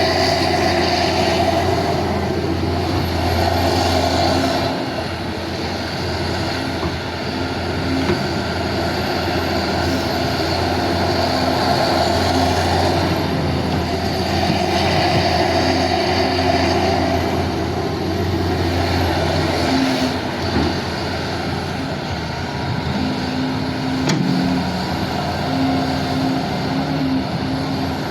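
Excavator's diesel engine running under working load. It grows louder and then eases off again over stretches of several seconds.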